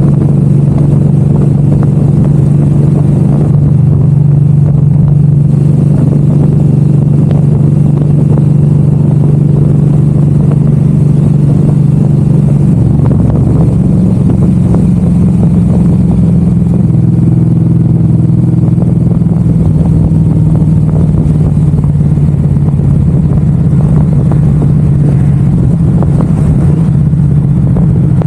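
Suzuki M109R's V-twin engine running steadily under way, its note changing about halfway through and then holding steady again.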